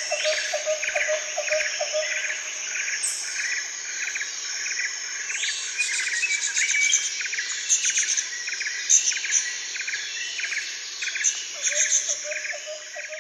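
Nature ambience of insects trilling and small birds chirping in quick repeated calls. A lower pulsing chirp, about three or four a second, is heard at the start and again near the end.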